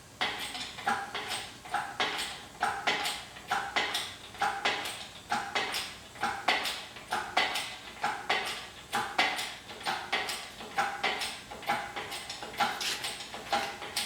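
Engine hoist being worked to lift the engine back into the truck's frame: steady metallic clanking, about two clanks a second, each with a short ring.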